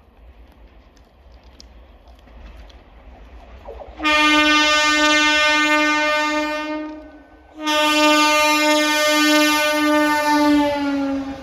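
A MEMU electric train's horn sounding two long blasts, a short gap between them. The second blast drops in pitch near its end.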